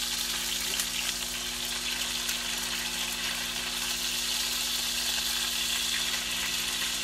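Pork chops frying in oil in a cast iron pan: a steady sizzle, with a faint low hum underneath.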